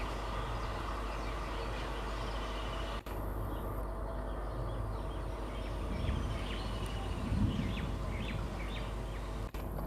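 Birds chirping over the steady low hum of an EMU local train approaching slowly, with a couple of low thuds in the second half. The sound cuts out for an instant about three seconds in and again near the end.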